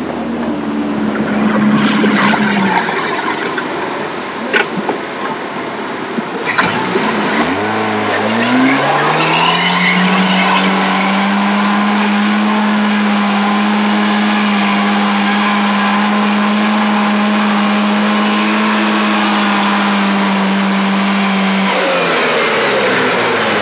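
Car engine revving up hard, about seven seconds in, and then held at steady high revs for around ten seconds while the wheels spin in mud on a trials hill, before the revs drop near the end. A few sharp knocks come before it.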